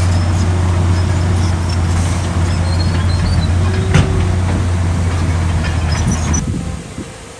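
Heavy diesel earthmoving machine running steadily with a deep engine hum, with one sharp metallic clank about four seconds in. The engine sound drops away near the end.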